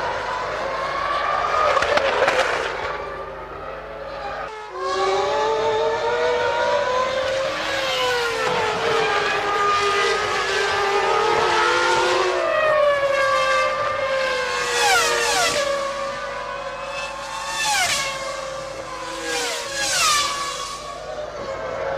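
Formula One cars' 3.0-litre V10 engines screaming at high revs, several at once, their pitches rising and falling as they accelerate and shift. There is an abrupt break about four and a half seconds in. Near the end come three quick steep drops in pitch, as when a car brakes and changes down.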